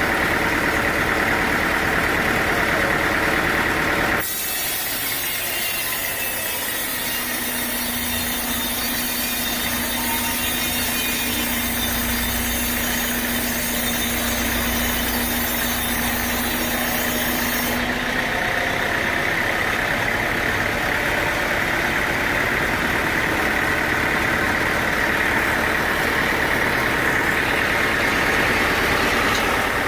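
Sawmill machinery running steadily with an engine-like drone. About four seconds in it changes abruptly to a bright hiss with a steady hum, and the drone returns after about eighteen seconds.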